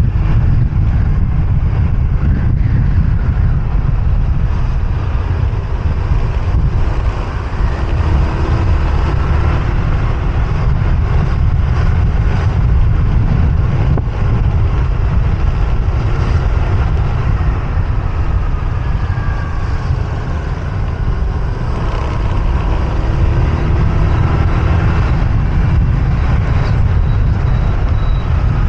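Riding a motorbike in city traffic: heavy wind rumble on the microphone, with motorbike engine notes rising and falling in pitch as the bike and the traffic around it speed up and slow down.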